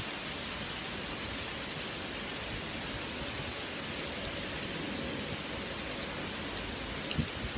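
Strong wind in a windstorm: a steady, even rush with gusts buffeting the microphone. A short knock comes about seven seconds in.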